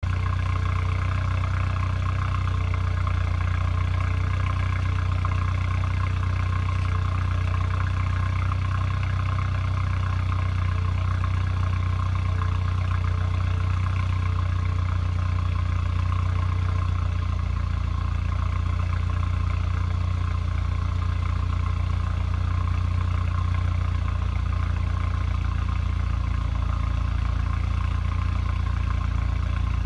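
Mercedes-Benz CLA 250 4MATIC's turbocharged 2.0-litre four-cylinder running at a steady idle from cold, heard at the sport exhaust.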